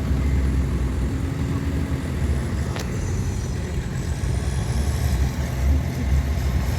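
Heavy diesel earthmoving machinery running steadily with a deep engine rumble, with one sharp click about three seconds in.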